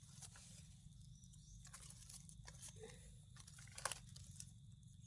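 Near silence with a few faint, scattered crunches and rustles, the clearest a little before the end, like handling leaf litter and soil while foraging.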